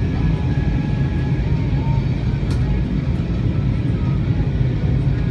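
Steady low drone of an Airbus A320's engines and airflow heard inside the passenger cabin in flight. A single sharp click comes about two and a half seconds in.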